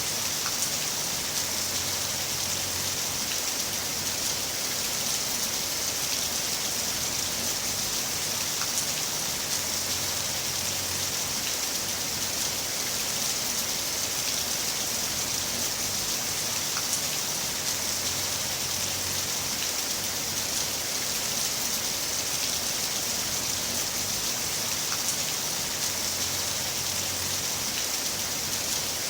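Heavy rain falling steadily: a dense, even hiss with a few faint individual drop ticks.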